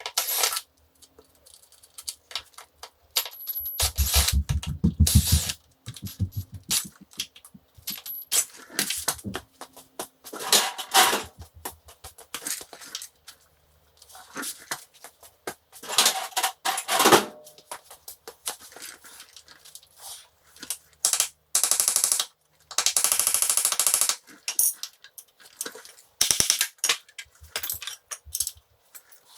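Hand tools working on metal motorcycle engine casing: scattered clinks, taps and knocks, with several runs of rapid clicking or rattling a second or two long.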